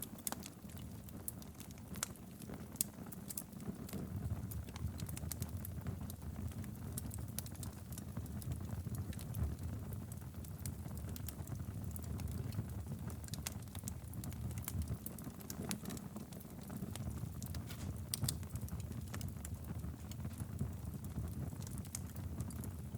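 Wood fire burning steadily in a fireplace, a low rumble of flames with frequent sharp crackles and pops scattered throughout.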